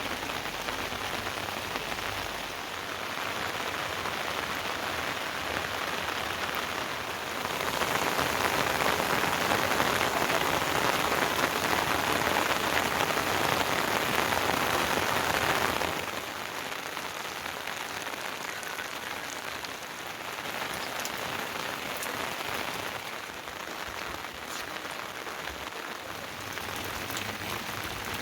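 Heavy rain falling steadily, growing louder for about eight seconds in the middle before dropping back, with a few sharp drip ticks in the quieter later part.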